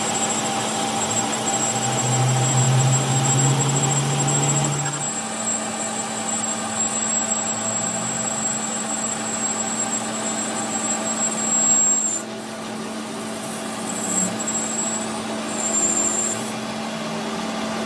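An engine running steadily with a constant hum, a deeper tone joining in for a few seconds near the start.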